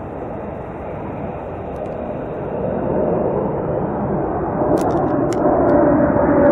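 F-35 Lightning II jet engine: a rushing jet roar that grows steadily louder, with a steady whine coming in over the last couple of seconds.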